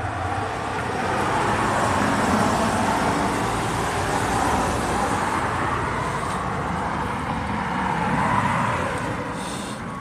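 Road and tyre noise of an electric bus on the move, mixed with passing city traffic; the noise swells about two seconds in and again near the end.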